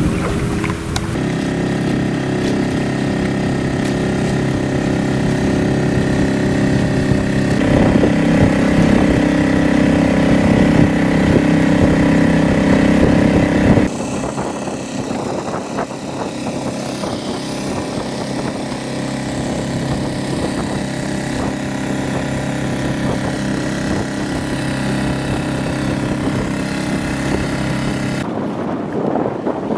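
Boat engine running at a steady speed, louder and a little higher from about eight seconds in, then throttled back near the middle. The engine note cuts out near the end, leaving wind and water noise.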